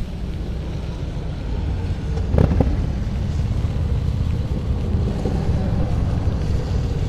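Low, uneven rumble of wind buffeting the microphone, mixed with street traffic noise. There is a brief knock about two and a half seconds in.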